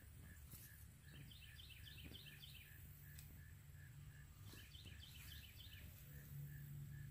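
Faint woodland ambience: a bird gives two short runs of quick high chirps, about a second in and again around four and a half seconds. Beneath them a soft note repeats about two or three times a second over a low rumble.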